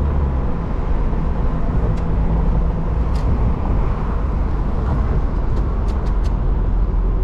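Mazda Miata's four-cylinder engine and exhaust running under way, heard from inside the car with road and wind noise; the engine's low note drops about half a second in, then holds steady. A few faint ticks come through later.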